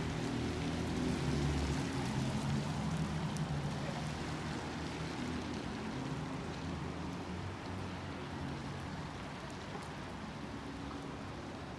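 Inside a moving bus: engine hum and an even rushing road noise. The engine tone is strongest in the first few seconds, and the whole sound slowly fades.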